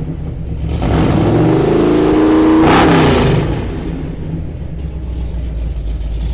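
Modified AMC 360 V8 in a 1975 Jeep CJ5 revved once, swelling for about two seconds before dropping back to a steady run, exhaling through headers and glass pack mufflers.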